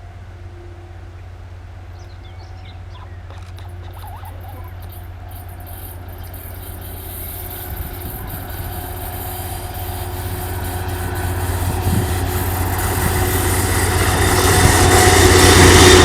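TEP70BS diesel passenger locomotive approaching with its train: a steady low engine drone with a few steady tones, growing louder throughout as it nears, with rising rail and wheel noise toward the end.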